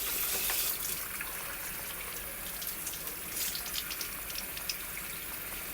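Water running from a tap into a sink as a vacuum cleaner part is rinsed under it: a steady hiss of water with small splashes.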